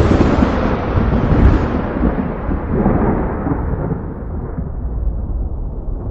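A thunderclap breaking right at the start and rolling into a long low rumble, its crackle slowly falling away over the following seconds.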